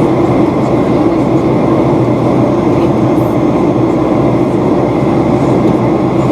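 Steady drone inside a Boeing 737-800 cabin: the CFM56-7B engines and the airflow over the fuselage make a constant hum, strongest in the low mids, that does not rise or fall.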